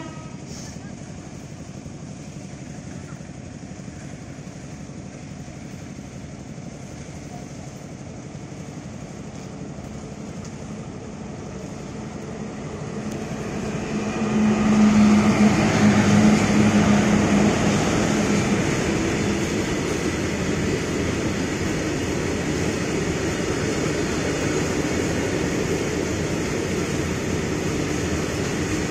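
Electric locomotive hauling a long freight train of open wagons approaches and passes. Its rumble builds over the first half and is loudest about halfway through as the locomotive goes by with a steady low hum. Then the wagons roll past with a steady wheel-on-rail noise.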